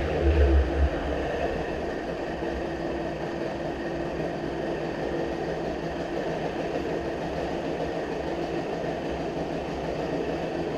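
Johnson 25 hp two-stroke outboard running steadily at idle after its low-speed mixture was richened to cure a lean pop, now running fine. It is louder for about the first second, then settles into a steady idle.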